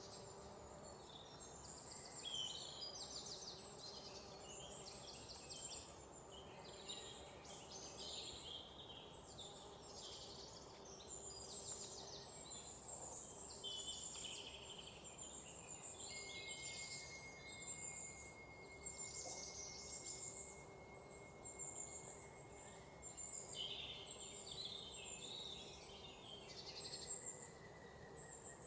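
Songbirds chirping and trilling in a dense, overlapping chorus of short calls. A steady thin high tone runs under them through the middle of the stretch.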